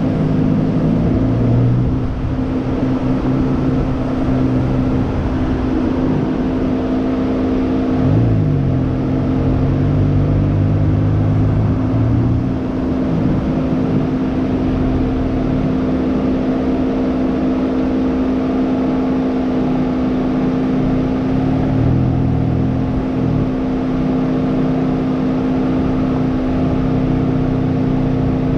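In-cabin sound of a Hyundai Elantra N's turbocharged 2.0-litre four-cylinder engine with road noise, a steady drone at fairly constant revs. The engine note shifts slightly a couple of times.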